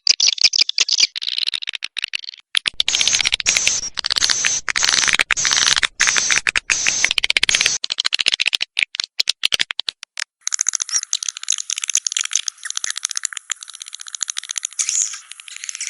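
Swiftlet calls played as a lure recording for a swiftlet house: dense, rapid twittering and clicking chatter. The texture changes abruptly about two and a half seconds in and again about ten seconds in, as one call sequence cuts to another.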